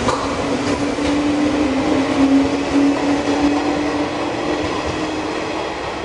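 Tobu Noda Line electric commuter train running past close by and away, its motors giving a steady hum that rises slightly in pitch over the first few seconds as it gathers speed, over wheel and rail noise that eases off toward the end.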